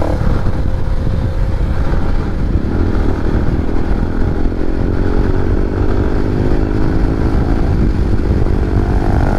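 Motorcycle engine running while riding, its pitch climbing slowly and steadily as the bike accelerates from about three seconds in, over a dense low rumble.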